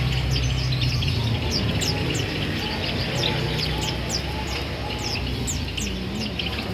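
Small songbirds chirping, with many short, high, downward-sliding chirps repeating quickly and overlapping, over a steady low hum.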